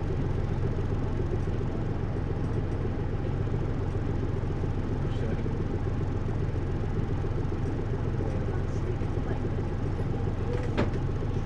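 Cabin running sound of a Hino U-HT2MLAA route bus moving at a steady pace: its engine and road noise run steadily, with a single sharp click about ten seconds in. This ageing bus is prone to abnormal noises, which its recordist likens to the last days of a sister bus.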